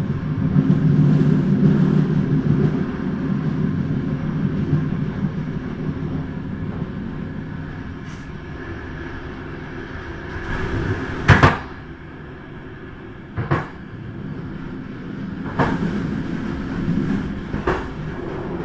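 Passenger train running on a mountain line, heard from its back door: a steady low rumble and hum, louder in the first few seconds and then easing, broken by several sharp knocks and clanks, the loudest a double knock about eleven seconds in.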